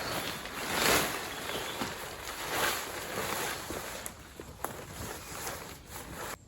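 Irregular rustling and shuffling that swells and fades, like camp gear being handled, with a few sharp light clicks around the middle.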